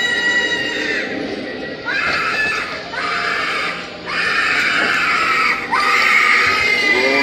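Halloween animatronic prop playing recorded sound effects: a long high squeal that fades about a second in, then four screams, each breaking sharply upward, over the din of a subway train.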